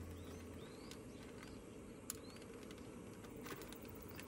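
Quiet outdoor background with small birds chirping faintly now and then, a few light clicks and a low hum that dies away about half a second in.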